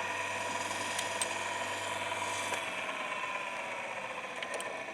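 Electric chainsaw sharpener's grinding-wheel motor whining steadily, then slowly dropping in pitch from about halfway through as it spins down, with a few light clicks.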